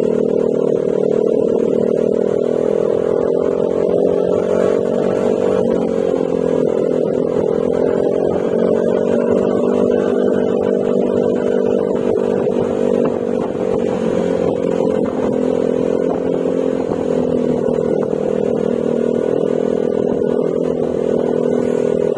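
Yamaha Mio Gravis scooter's 125 cc single-cylinder engine, breathing through an Akrapovic exhaust with a silencer, running at a steady cruise. The pitch rises and dips a little as the throttle changes.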